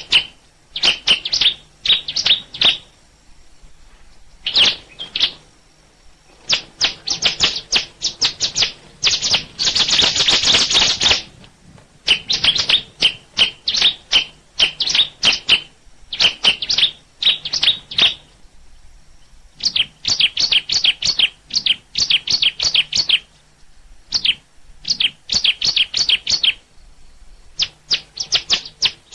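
A bird chirping in quick bouts of rapid, high chirps with short pauses between them. About a third of the way in, it gives one denser, unbroken run lasting about two seconds.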